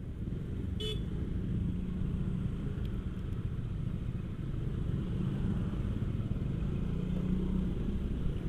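Motorcycle engine running steadily while riding, with a short horn toot about a second in.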